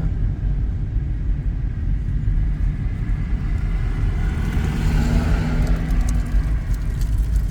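Car driving along the road, heard from inside the cabin: a steady low engine and road rumble, with the tyre and road noise swelling up for a couple of seconds around the middle.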